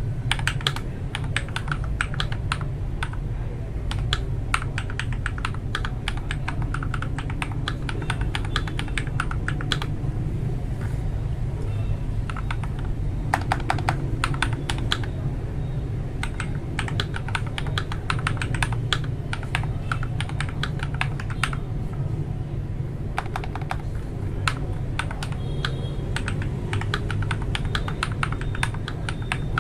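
Mechanical keyboard with Akko Matcha Green linear switches being typed on in runs of rapid keystrokes, with a few short pauses between runs.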